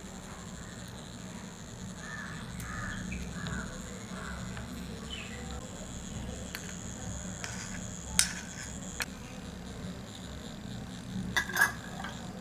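Birds calling, a run of short calls a couple of seconds in, over a steady background hum, with sharp clicks about eight seconds in and again near the end.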